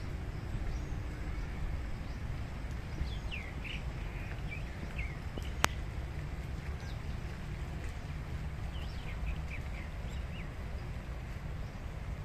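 Birds chirping in short sliding calls, one cluster a few seconds in and another about nine seconds in, over a steady low rumble of outdoor noise. A single sharp click comes about halfway through.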